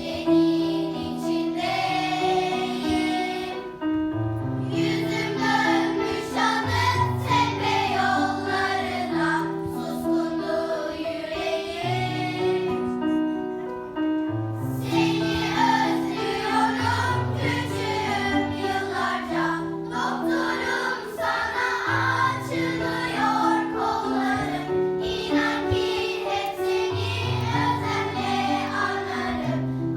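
Music: a group of voices singing together, likely children, over a keyboard accompaniment with a repeating bass line.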